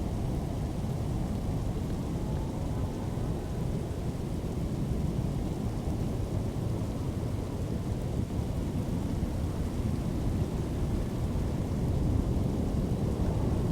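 Steady low rumbling storm noise, most likely strong wind from a tornado storm, even throughout with no distinct claps or strikes.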